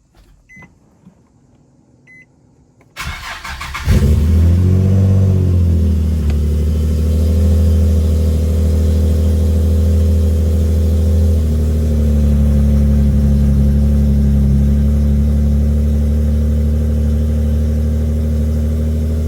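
Two short electronic beeps, then the Infiniti G37's 3.7-litre V6 cranks about three seconds in and catches with a brief rev flare. It settles into a steady idle that drops slightly partway through.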